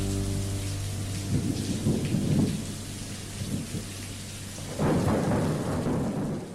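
Steady rain falling with two rolls of thunder, a lower one a little over a second in and a louder one about five seconds in. A held musical chord fades out in the first second.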